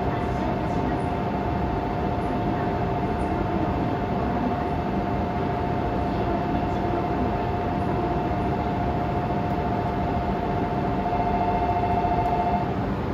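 Steady hum of a JR East E3 series Shinkansen standing at a station platform, with a steady two-pitch tone that cuts off suddenly near the end.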